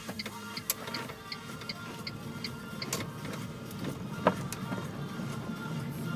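Car turn-signal indicator ticking quickly and evenly, about three ticks a second, for the first three seconds over a steady low hum inside the cabin. A single sharp click comes about four seconds in.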